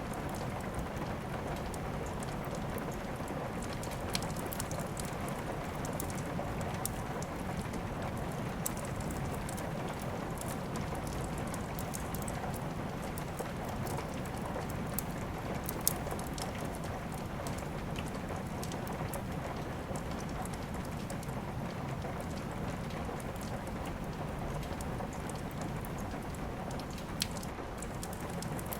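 Steady rain falling, with scattered sharp crackles and pops from a wood fire in a fireplace; a few louder pops stand out now and then.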